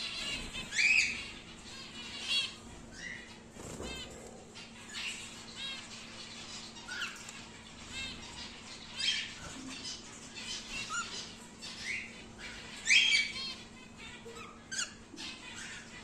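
Young normal grey cockatiel chirping and calling, a string of short rising and falling chirps with louder squawks about a second in and again near the end.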